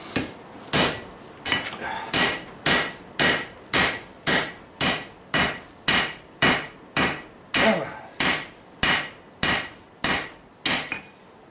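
Steady hand-forging: a blacksmith's hammer striking hot steel on a Vulcan anvil, about twenty blows at roughly two a second, each with a short ring.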